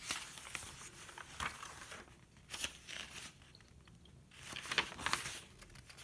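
Paper rustling and crinkling as pages of a thick handmade junk journal of tea-stained and vintage papers are handled and turned, in several short bursts, the loudest just before 5 seconds in.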